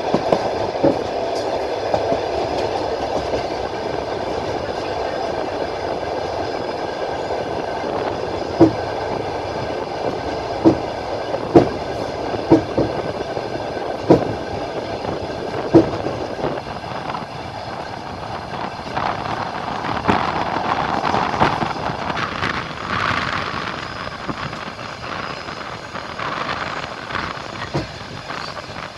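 Passenger train wheels rolling on the track, heard from aboard the train: a steady rumble, with a series of sharp clacks over rail joints in the middle and a brighter, hissing rush of rolling noise later on.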